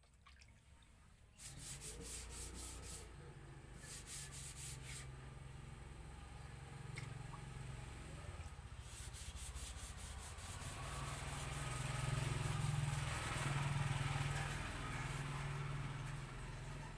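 Handheld Paint Zoom electric paint sprayer running. It starts about a second and a half in, with a steady low buzz under a spraying hiss that comes in uneven passes and is loudest near the end.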